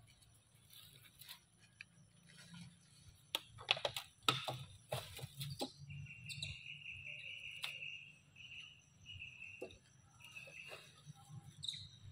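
Outdoor birdsong: a quick run of sharp clicks about four to five seconds in, the loudest part, then a high whistled note repeated in several short stretches. Faint steady high-pitched tones run underneath.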